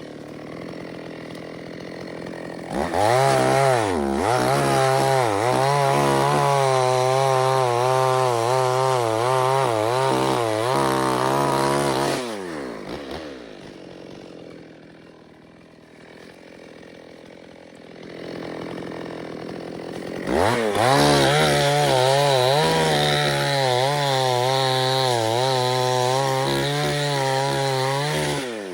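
Chainsaw engine at full throttle with its pitch wavering under load as it cuts, twice for about eight to nine seconds, dropping back to idle between the cuts and after them.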